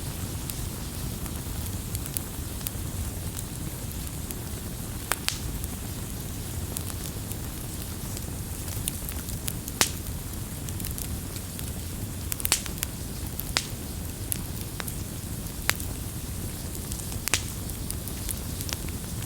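Campfire crackling: sharp, irregular pops every second or two over a steady low rush of burning wood.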